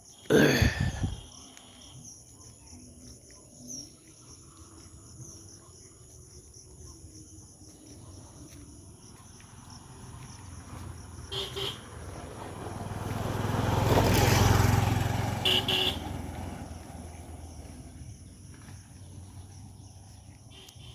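A motor vehicle passes along the road, growing louder to a peak about two-thirds of the way through and then fading, with short double horn toots just before and just after it goes by. Crickets chirr steadily underneath, and a brief loud noise sounds right at the start.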